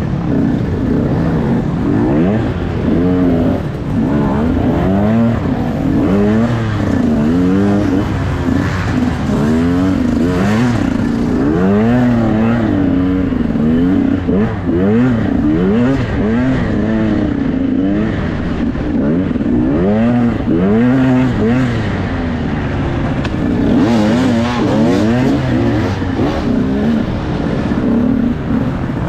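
Enduro dirt bike engine being ridden hard, revving up and down over and over, its pitch climbing and dropping every second or two as the throttle is opened and closed.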